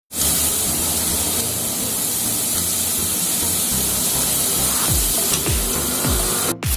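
Chopped onions sizzling in hot oil in a stainless steel pot, a steady hiss. Background music with low bass notes plays under it, with repeated falling bass tones from about five seconds in.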